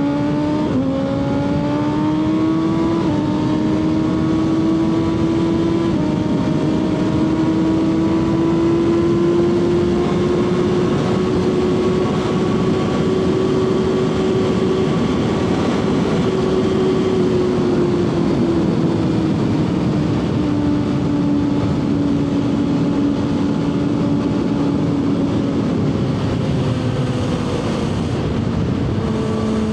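Kawasaki ZX-6R's inline-four engine pulling through two quick upshifts in the first few seconds, then running at a steady cruise that slowly rises and later eases off toward the end, with heavy wind rush over the rider's camera.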